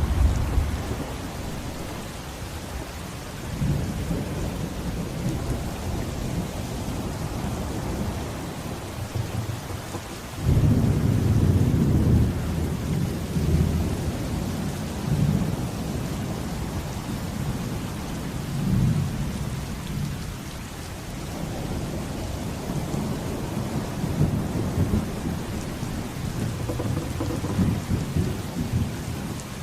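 Steady rain with rolling thunder. A loud thunderclap breaks in suddenly about ten seconds in and rumbles on for a couple of seconds. Softer rumbles swell and fade before and after it.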